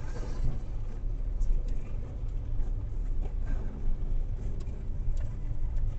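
Car driving, its low engine and road rumble picked up by a dashcam microphone inside the car, with a few faint clicks.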